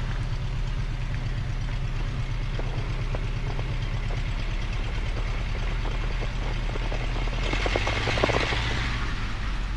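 Cessna 172RG's four-cylinder Lycoming engine idling steadily while the plane taxis, with a brief louder scratchy noise about eight seconds in.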